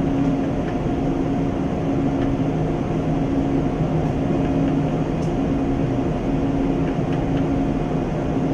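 Jet engine running steadily in a test cell: a dense, even low roar with a steady hum that neither rises nor falls.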